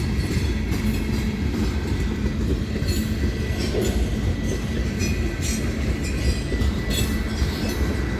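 Freight train of loaded rock wagons rolling past: a steady low rumble with scattered wheel clicks over the rail joints and a faint thin squeal.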